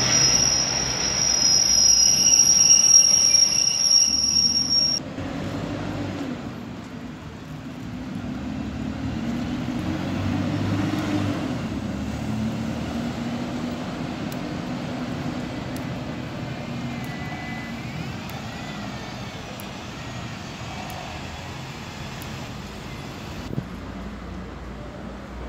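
Container freight train rolling past, its wheels giving a high, steady squeal. After about five seconds this gives way to road traffic, with a bus engine swelling as it passes.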